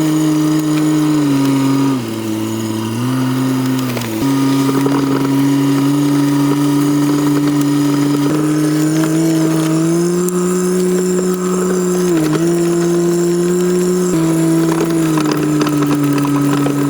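Vehicle engine running steadily under load while towing a log, its pitch dipping and rising in steps as the throttle and load change.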